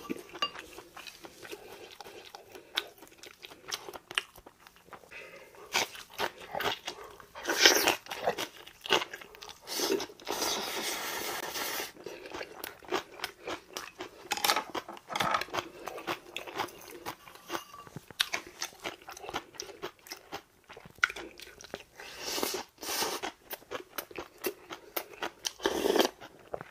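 Close-up eating sounds: a person biting and chewing crunchy food, with the clicks of chopsticks and a spoon against ceramic bowls. About ten seconds in there is a steady rushing sound lasting about two seconds.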